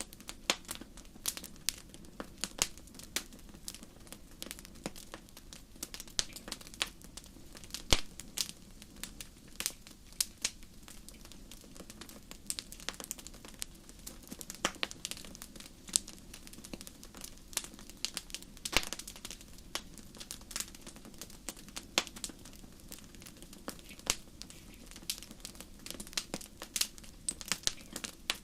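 Campfire crackling, with irregular sharp pops and snaps several times a second over a low steady burn.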